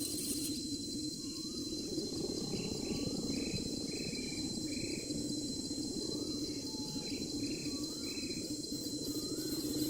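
Steady insect shrilling over a low steady hum, with two runs of short, evenly spaced bird chirps, about two a second, the first a couple of seconds in and the second past the middle.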